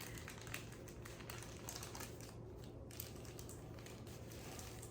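Faint crinkling and light scattered clicks of the paper wrapper of a sterile glove package being handled and unfolded.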